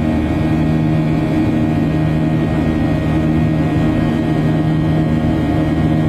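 Steady, unchanging drone of jet airliner cabin noise in flight, engine hum and airflow together.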